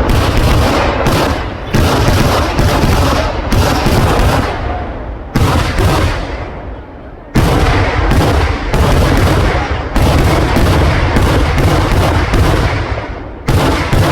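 Kerala vedikettu fireworks: a rapid, near-continuous barrage of loud firecracker bangs, several a second, each with a ringing tail. The barrage thins to a short lull about six seconds in, then bursts back in at full density.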